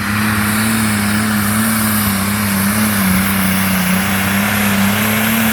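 1974 International 1066 pulling tractor's diesel engine running flat out under full load. The note holds steady with a slight waver over a loud rush of exhaust noise, and a thin high whistle runs above it.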